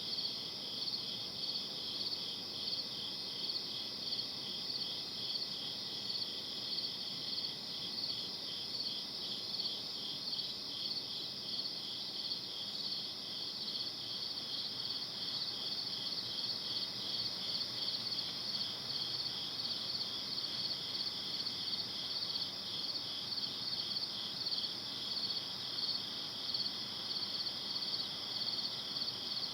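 Night chorus of crickets chirping: a steady, high, rapidly pulsing trill that never lets up, over a faint background hiss.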